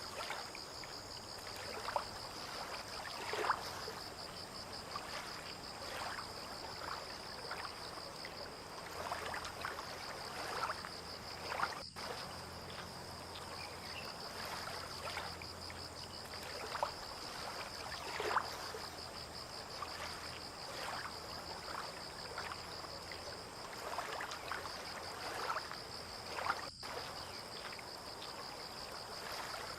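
Water lapping in small, irregular splashes every second or two over a steady, high-pitched insect trill. A faint low hum comes in for a while in the middle.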